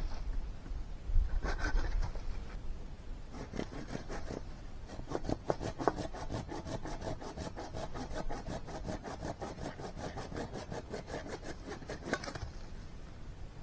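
Hand saw cutting wood: a short burst of strokes, then a long run of quick, even back-and-forth strokes that stops shortly before the end.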